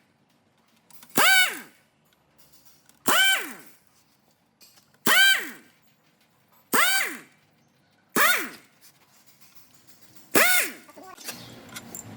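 Hammer blows on a metal part, six strikes spaced about every one and a half to two seconds, each leaving a short metallic ring that falls in pitch.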